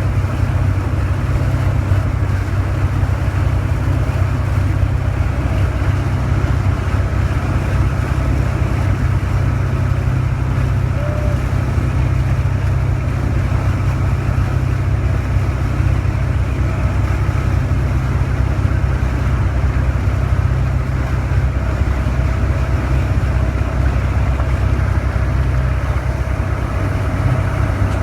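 A parasail boat's motor running steadily with a constant low drone.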